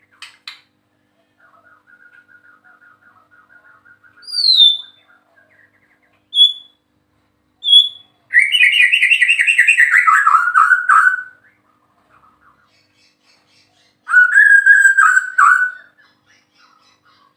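White-rumped shama (murai batu) singing: soft rapid chatter, then a few clear whistled notes, then two loud warbling phrases, the first sliding down in pitch.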